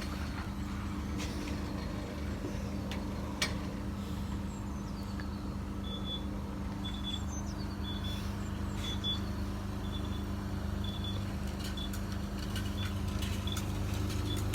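Steady electric hum of self-service car wash equipment, with a few scattered clicks. From about six seconds in, a short high beep repeats roughly once a second.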